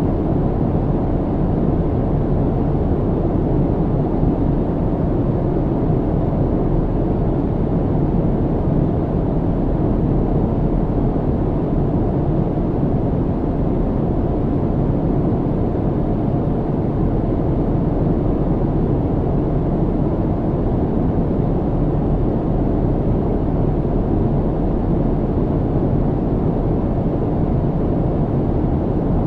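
Steady low rumble of an airliner cabin in cruise flight: engine and airflow noise, even and unchanging, with most of its weight in the low end.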